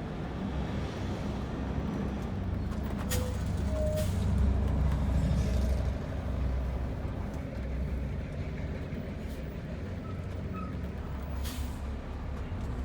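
Vehicle engine and road noise heard from inside the cab while driving: a steady low rumble that swells for a couple of seconds midway, with a few sharp clicks.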